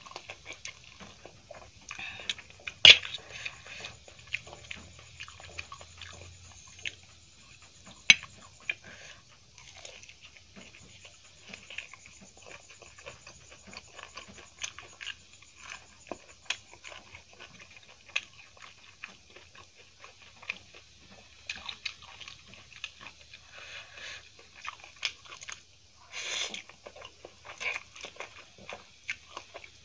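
Close-up eating sounds: chewing and biting mouthfuls of Maggi masala noodles and fried cauliflower pakoda, a steady run of small wet clicks and smacks, with two sharp loud clicks about three and eight seconds in.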